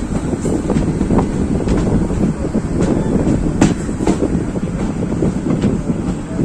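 Express passenger train running along the track, heard from on board the coach: a steady rumble with sharp clicks of the wheels over rail joints now and then, the loudest a little past halfway.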